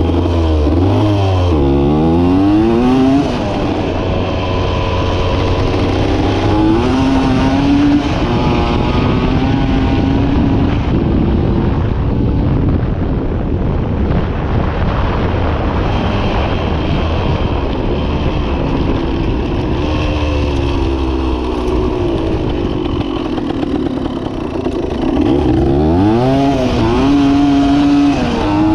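1980 Yamaha DT 175 two-stroke single-cylinder engine ridden on gravel. Its pitch climbs and drops repeatedly in the first few seconds as it is revved and shifted up through the gears, holds steadier while cruising, then climbs again near the end, over wind and tyre noise.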